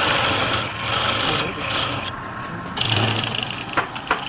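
Wood lathe running while an abrasive or tool rubs against the spinning wood in repeated rasping strokes. The rasping stops a little past two seconds in. A low motor hum then comes up, with a few sharp clicks near the end.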